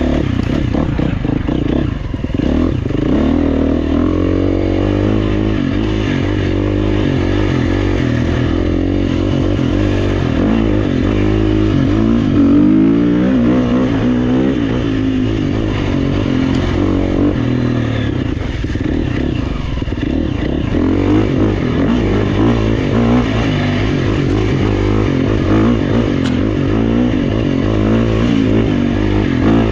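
Four-stroke dirt bike engine, a GasGas EX350F, revving up and down continuously as it is ridden along a trail, the pitch rising and falling with each burst of throttle and gear change.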